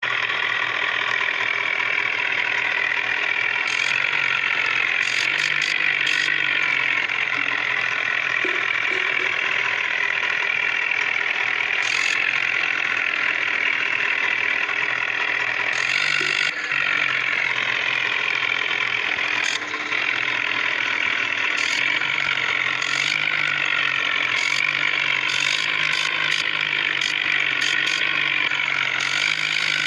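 Vehicle engine running steadily, its pitch wavering slightly up and down, with scattered short clicks.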